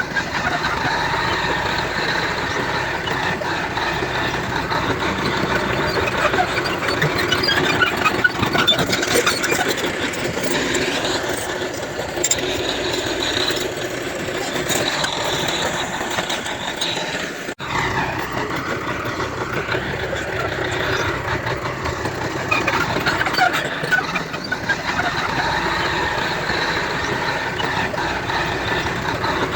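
Heavy diesel earthmoving machinery, a bulldozer and dump trucks, running steadily, with a brief drop in sound about seventeen seconds in.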